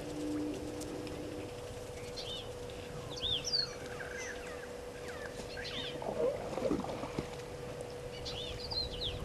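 Wild birds calling: clusters of short, high, arched chirps repeated every few seconds, over a faint steady hum.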